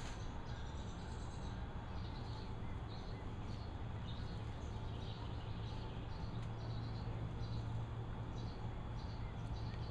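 Birds chirping: short high chirps repeating irregularly over a steady low hum.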